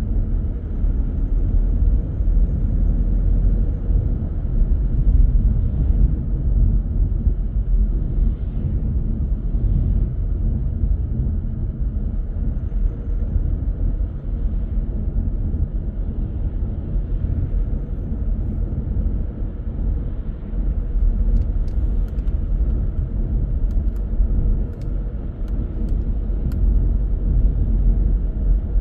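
Car driving along a road: a steady low rumble of tyres and engine, with a few faint ticks in the second half.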